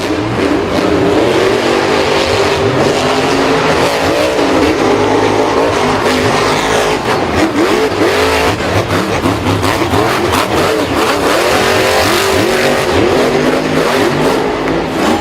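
Several vehicle engines revving together, their pitches rising and falling and overlapping, with no break.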